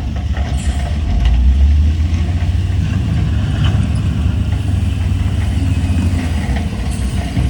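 Heavy diesel engine of earthmoving machinery running with a deep, steady rumble, with a few short ticks or clanks over it.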